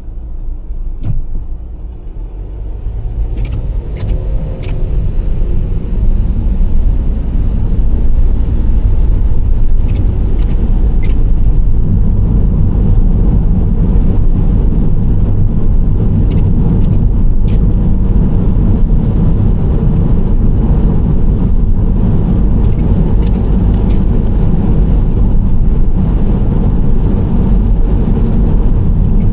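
Nissan Serena C25 minivan driving: its engine and tyre road noise make a low rumble that grows louder over the first several seconds, then holds steady. A few faint clicks are scattered through it.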